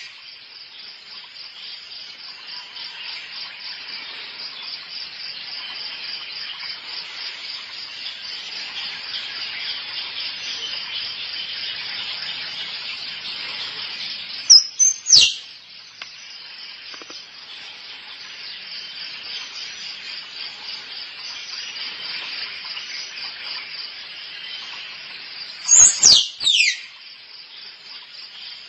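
Squirrel calling: loud, sharp calls that each sweep steeply downward in pitch, a pair about halfway through and a quick run of three near the end. Under them runs a steady, fast-pulsing insect chorus.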